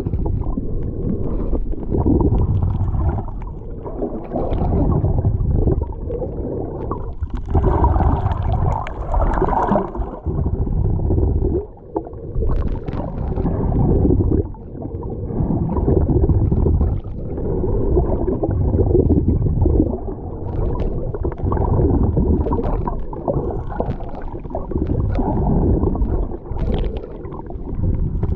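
Sea water sloshing and churning, heard as a heavy, uneven low rumble that swells and dips every couple of seconds, with a few brief crackles.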